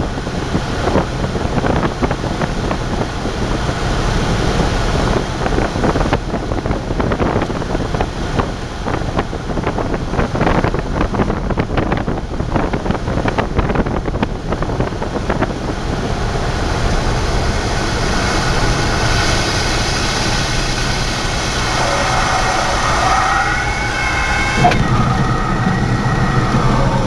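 Cessna 172 propeller engine running under heavy wind and rumble noise during a landing. About 22 seconds in, pitched engine tones appear and slide downward, and near the end the engine settles into a steady low idle.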